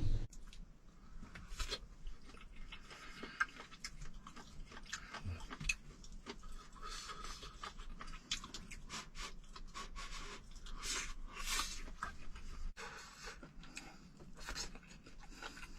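Quiet eating of claypot rice: chewing with small irregular clicks and scrapes of a utensil on the dish.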